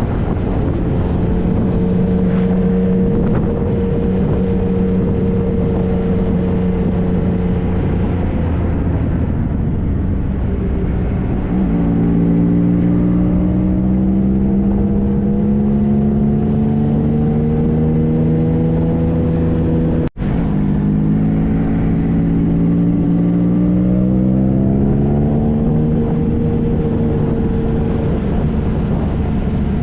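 Triumph Trophy SE's 1215 cc inline-three engine under way, with wind rush. It runs at a steady pitch, eases off, then pulls hard twice, the pitch climbing after each drop at a gear change. The sound cuts out for an instant about two-thirds through.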